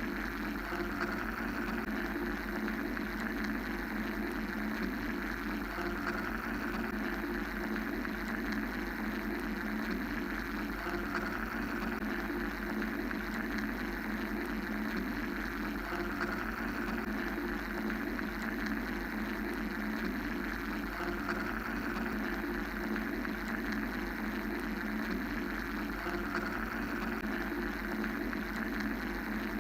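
Steady mechanical white-noise drone: a low hum under a hissing band that swells and fades gently every few seconds, made as a sleep and meditation noise track.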